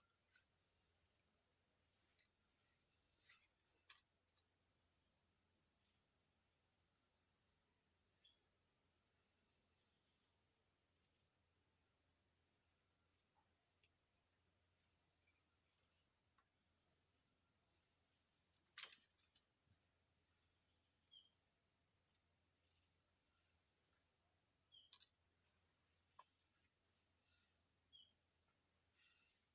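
A steady, high-pitched chorus of insects chirring without pause, with a few faint clicks now and then.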